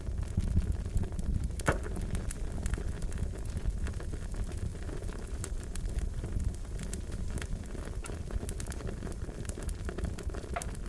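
Wood fire crackling: a steady low rumble with irregular sharp pops and snaps, one louder snap about two seconds in and another near the end.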